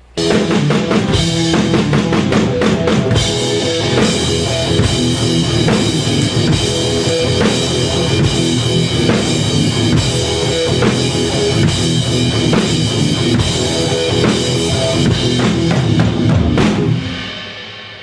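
Heavy metal band playing a riff together: drum kit with bass drum and snare under heavy, crunchy distorted guitar. The playing stops about a second before the end and rings out.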